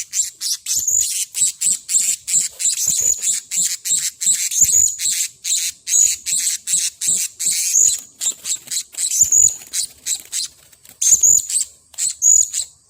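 Blue-crowned hanging parrot calling in a rapid run of short, shrill, high-pitched notes, several a second, with a few brief pauses. This is the agitated calling of a decoy bird described as angry.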